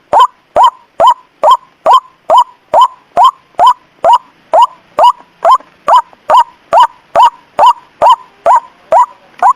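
White-breasted waterhen (ruak-ruak) call played as a bird lure: short, loud, identical call notes repeating at a steady pace of a little over two per second.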